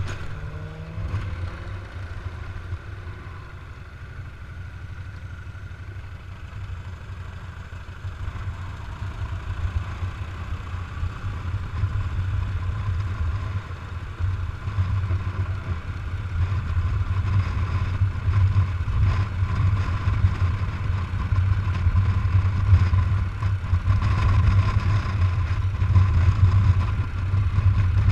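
Harley-Davidson FLHT's V-twin engine running under way, with wind rushing past, growing steadily louder as the bike picks up speed.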